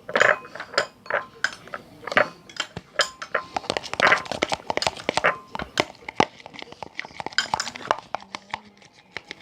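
A stirrer clicking and scraping against a container as slime is mixed, in quick irregular taps with a few louder squelchy knocks.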